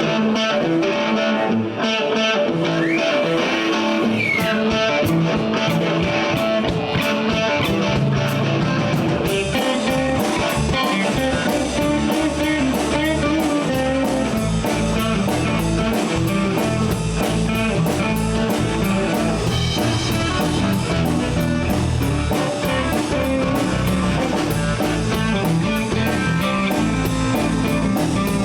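Live blues band playing an instrumental passage: electric guitar with bass and drum kit, including a bent guitar note a few seconds in. The cymbals come in stronger and steady about nine seconds in.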